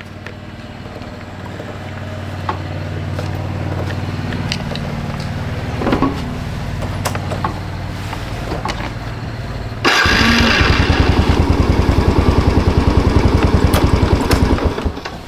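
Motorcycle engine running steadily at idle, a low even hum. About ten seconds in, a much louder machine sound with a fast pulsing beat starts suddenly and cuts off just before the end.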